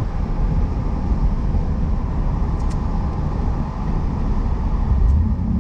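Steady low rumble of a 1988 Pontiac Firebird Formula's 305 small-block V8 and road noise, heard from inside the cabin while the car is being driven.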